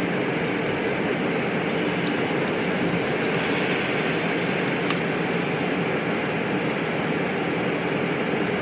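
Steady noise inside a car, a low rumble with a hiss over it, such as the engine, road and the cabin fan make together.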